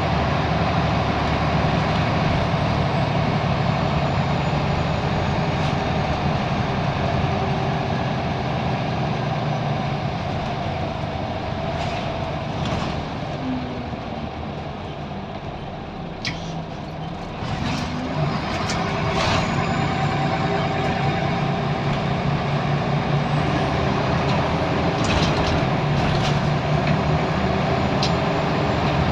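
Scania L94UB bus's diesel engine running, heard on board. The engine eases off and quietens around the middle, with a few short sharp hisses and clicks from the air brakes, then picks up again to a steady drone.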